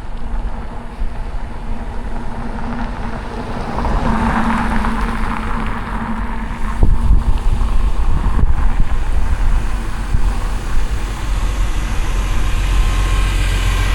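City street traffic, motor vehicles passing close by, with wind rumbling on the microphone of a moving bicycle. The traffic grows louder about halfway through.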